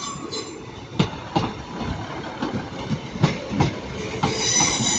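Class 156 diesel multiple unit moving off, its wheels clicking and knocking irregularly over rail joints and pointwork. A high-pitched wheel squeal sets in near the end.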